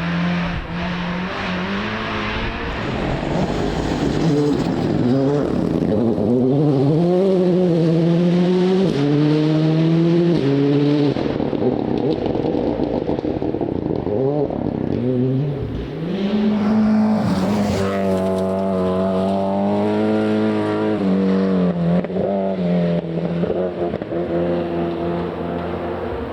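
Rally car engine revving hard, its note climbing and falling through gear changes, dropping sharply off the throttle about eleven and fifteen seconds in, then pulling hard again.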